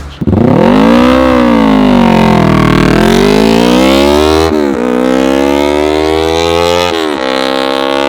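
Yamaha R3's parallel-twin engine, breathing through a Dynamic aftermarket exhaust, revving hard as the bike accelerates. The pitch climbs, sinks back, then climbs again with two quick drops, about four and a half and seven seconds in, as it shifts up through the gears.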